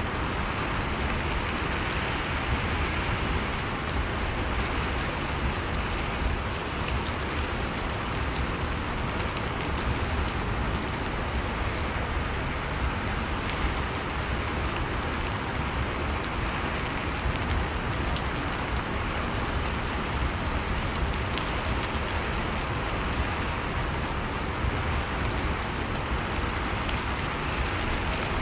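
Steady rain falling, an even, continuous hiss with a low rumble underneath and no letup.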